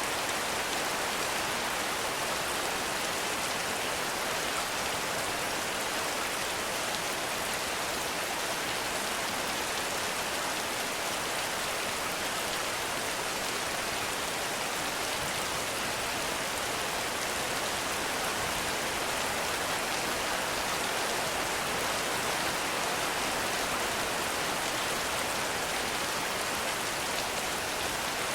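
Heavy rain falling steadily, a dense even hiss of drops with no thunder or other distinct sounds.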